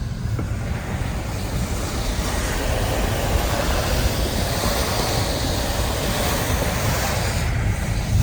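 Car driving on a wet road in heavy rain, heard from inside the cabin: a steady low road rumble under a broad wet hiss that swells through the middle and eases off near the end.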